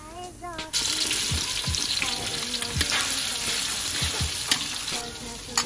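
Chopped onion and garlic frying in hot oil in a wok: a loud sizzle starts suddenly just under a second in, as the onion goes into the oil, and keeps going. A metal spatula stirs the pieces, scraping and clicking against the wok.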